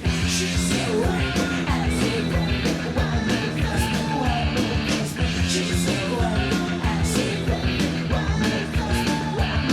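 Rock band playing: guitars, bass and a steady drum beat, with a sung vocal line.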